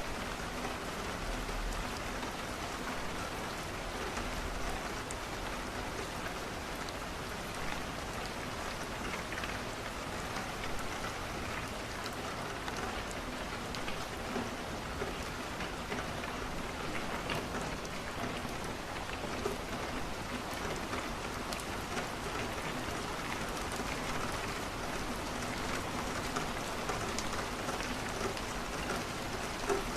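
Steady rain falling on a window, with scattered small pops and clicks from a crackling wood fire.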